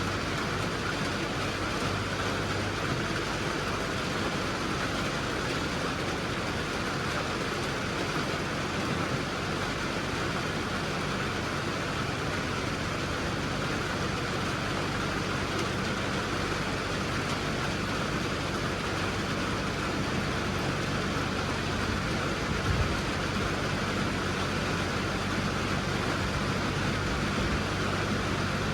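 A vehicle engine running steadily under a constant hiss of rain, with one brief thump about three-quarters of the way through.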